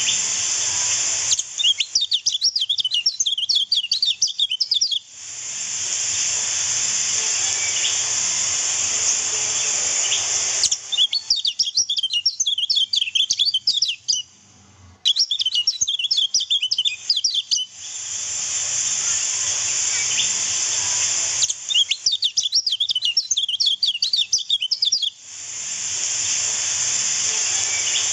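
Recorded kecial kuning (white-eye) song, four bursts of rapid, high chattering notes each lasting a few seconds. These alternate with a steady rushing-water hiss, as in a bird-training 'water therapy' track.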